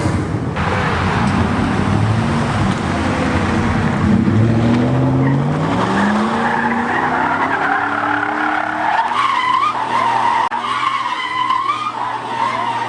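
A truck drifting: its engine revs up, climbing in pitch over the first several seconds, then the tires screech in a long wavering squeal as it slides, all under a loud rush of tire and engine noise.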